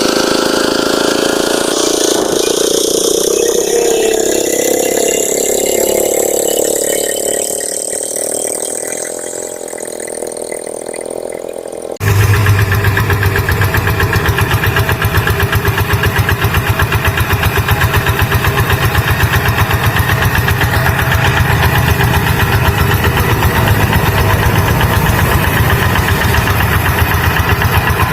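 Tractor engine running while ploughing a rice paddy. For the first part its note shifts slowly in pitch; after an abrupt cut about twelve seconds in, it runs louder with a steady, rapid, even chugging.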